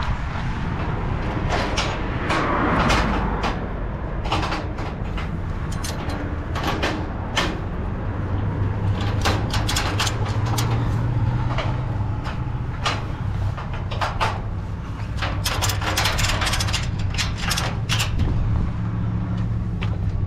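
Vehicle running under way: a steady low engine drone with frequent short rattles and knocks, as from inside a truck's cab.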